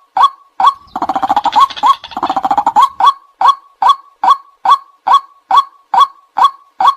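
White-breasted waterhen giving its repeated 'kwak' call, a short upward-flicking note a little over twice a second. Between about one and three seconds in, the steady series breaks into two fast rattling runs of notes.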